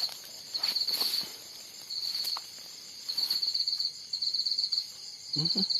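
Night insects chirping in high, rapidly pulsed trills, each burst lasting about half a second to a second with short gaps between, repeating over and over.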